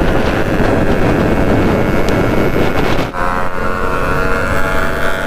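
Two-stroke Yamaha RX motorcycle running on the road, with heavy wind noise on the microphone. About three seconds in, the wind drops and the engine's steady note comes through clearly.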